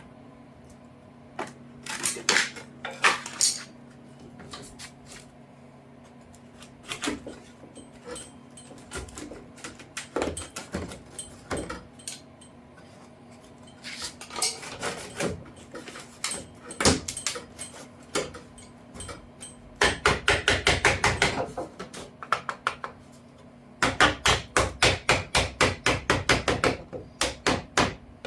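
Hand tools working a metal edge piece: scattered light knocks and clinks, then two runs of rapid, even metal-on-metal taps, about seven a second, in the last third.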